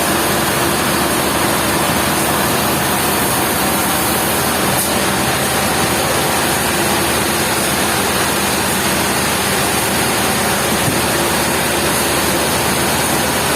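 Sawmill machinery running steadily: a loud, even noise with a faint hum.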